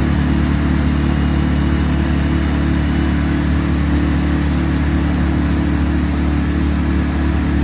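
A large engine running steadily at a constant speed, with a deep, even hum.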